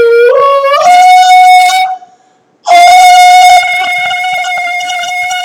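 A voice singing long held notes, wordless. It steps up in pitch over the first two seconds, breaks off briefly, then holds one long, steady high note.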